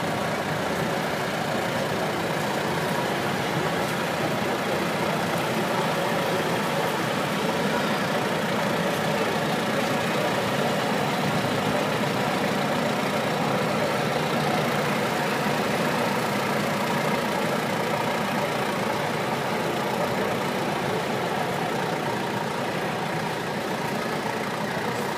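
Engines of Massey-Harris 55 tractors running steadily, heard from close by.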